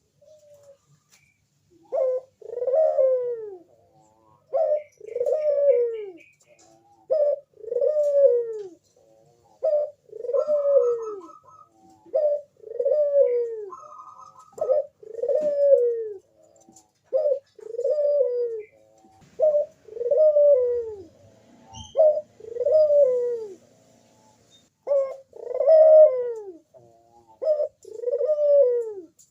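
Crossbred puter dove (ringneck dove) cooing over and over in a steady calling bout, each call a short note followed by a longer falling coo, repeating about every two and a half seconds from about two seconds in.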